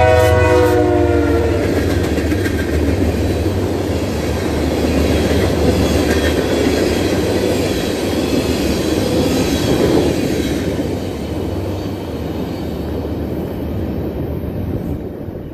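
A BNSF diesel freight locomotive sounds its horn as it passes, the chord dropping in pitch and cutting off about a second and a half in. Then the engine runs by and the steel wheels of a short string of tank cars clatter over the rails, fading as the train moves off near the end.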